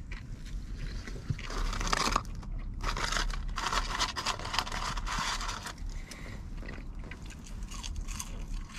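A person chewing a mouthful of burger close to the microphone, with crunching bites. Around the middle, a paper fries carton rustles as fries are taken from it.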